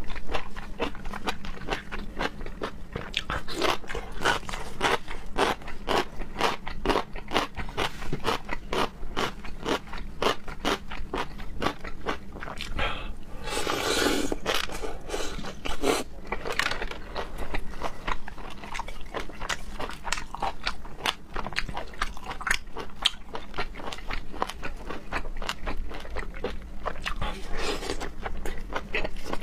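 A person chewing raw ark clam sashimi: rapid crunching and chewing clicks, with a longer, louder stretch of about two seconds about halfway through.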